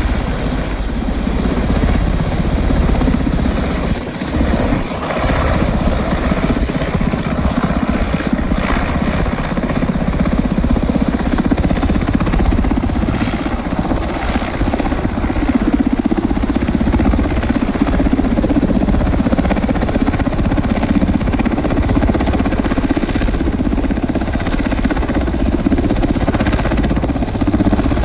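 Helicopter flying, its rotor blades making a steady, rapid chopping beat over a loud low drone.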